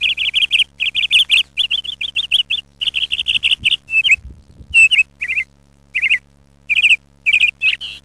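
Small songbird chirping in quick runs of short, sharp notes, the runs breaking into separate bursts about halfway through, over a faint steady hum.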